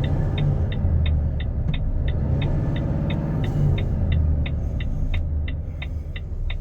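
Volvo FH 460 truck's 13-litre six-cylinder diesel engine running with a steady low rumble, with a quick, regular high ticking, about three ticks a second, over it.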